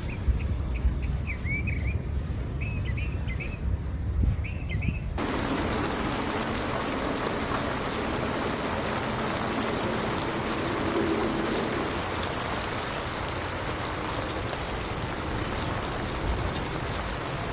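Steady rain falling, an even hiss that starts suddenly about five seconds in. Before it, a low rumble with a few short bird chirps.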